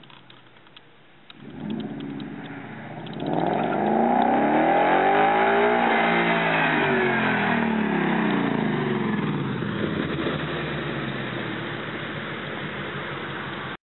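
2011 Ford Mustang 5.0 V8 through Magnaflow axle-back exhaust with the mufflers deleted, revving: a short blip about a second and a half in, then a loud pull whose pitch climbs for a few seconds and falls away, fading before the sound cuts off suddenly near the end.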